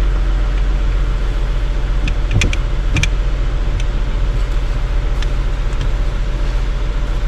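2016 Toyota Sienna's 3.5-litre V6 idling with a steady low hum while the brake system is held under pressure. A couple of sharp clicks come about two and a half and three seconds in.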